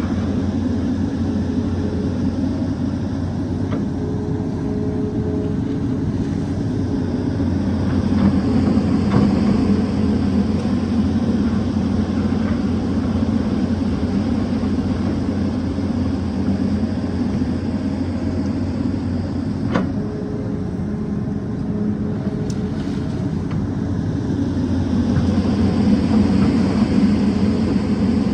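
Excavator's diesel engine running steadily, swelling a little about ten seconds in and again near the end, with a few faint knocks.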